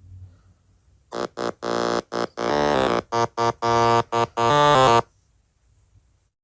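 A short electronic keyboard melody: a quick run of about a dozen notes, starting about a second in and stopping abruptly near the five-second mark.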